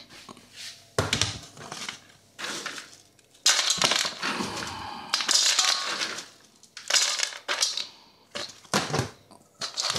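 Dog food being scooped and tipped into a dog bowl: a series of crunching, rattling knocks, with a longer rattle lasting about three seconds in the middle.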